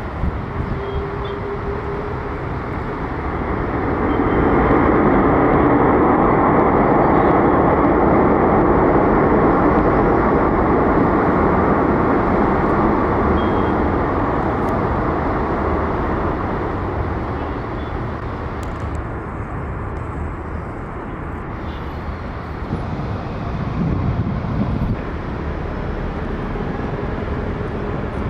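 Jet airliner engines rumbling as the aircraft passes, building up over a few seconds, holding loud for several seconds, then slowly fading away.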